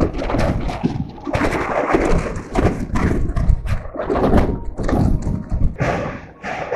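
Express train running on the tracks, heard from its open doorway: wheels clatter over rail joints and points in irregular knocks and thumps over a heavy rumble, with wind buffeting the microphone.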